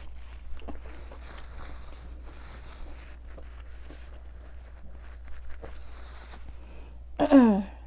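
Quiet chewing and mouth clicks of someone eating fried nuggets, then near the end one short voiced sound from the eater, falling in pitch.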